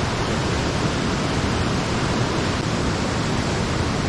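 Small mountain stream's water rushing steadily, an even wash of noise with no breaks.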